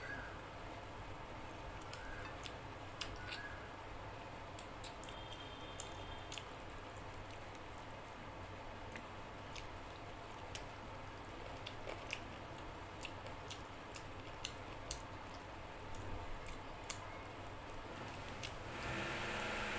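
Close-miked eating sounds of chicken curry being eaten by hand: wet chewing and lip smacks, with sharp mouth clicks scattered throughout. A louder hiss comes in near the end.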